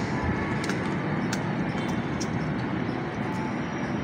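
Steady low background noise, like distant traffic hum, with a few faint clicks.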